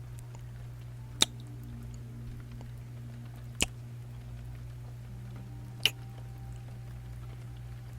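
Three short, wet kissing sounds (lip smacks) about two seconds apart, over a steady low hum.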